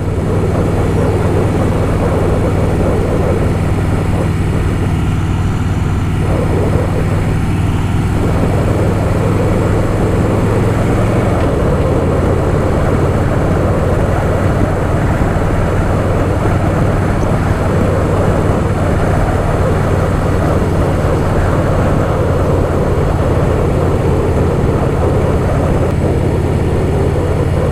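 Harley-Davidson Softail Fat Boy's V-twin engine running steadily at road speed, with wind noise on the microphone. The engine note shifts slightly about eleven seconds in.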